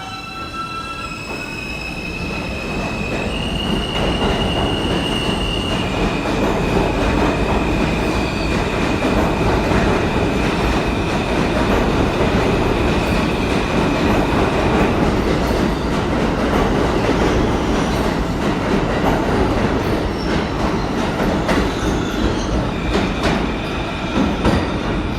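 New York City subway train running, with a heavy rumble of wheels on rail that builds over the first few seconds and then holds. Long, steady high-pitched wheel squeals come in and out over it, with occasional sharp clicks.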